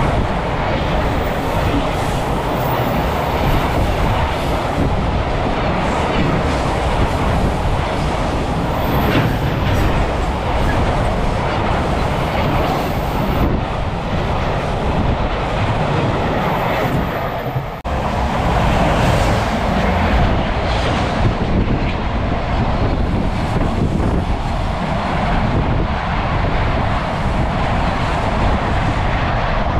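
Freight train hauled by an EF210 electric locomotive passing at high speed: steady, loud wheel-on-rail noise of the wagons running by. About 18 seconds in, the sound breaks off suddenly and picks up again as another passing freight train.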